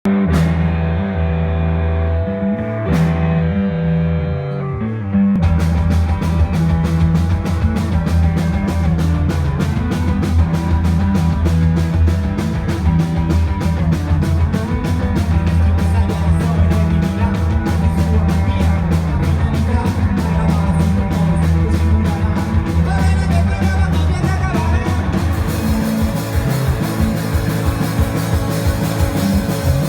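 Rock band playing live. Held, ringing chords open the music, and about five seconds in the full band comes in with a steady driving beat.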